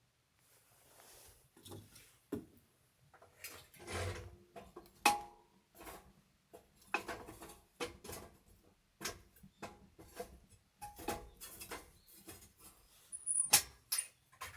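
Objects being handled: irregular knocks and clatter, several with a brief ringing tone, the loudest about five seconds in and near the end.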